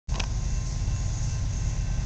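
Low steady rumble of the distant approaching BNSF business train's diesel locomotives, with faint steady high tones over it. A brief click just after the start.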